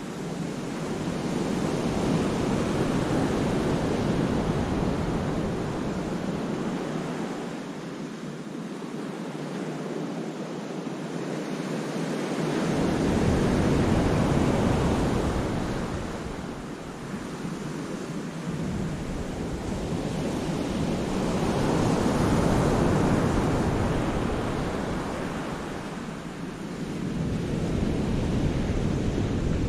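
Sea waves surging in and washing back over rocks in a cove, the rush swelling and fading in long surges several seconds apart. At times a low rumble of wind buffets the microphone.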